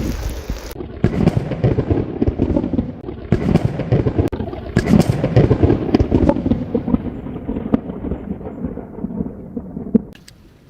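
Campfire burning close by with dense crackling and popping over a low rumble. The sound grows duller as its high end fades away, then drops off sharply near the end.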